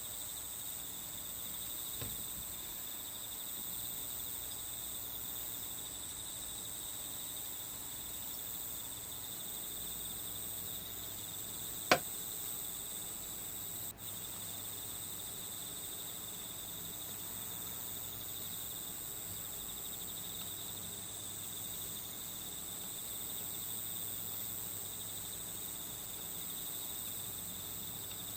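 Steady chorus of crickets, a continuous high trill. A single sharp click about twelve seconds in, and a faint tap near two seconds.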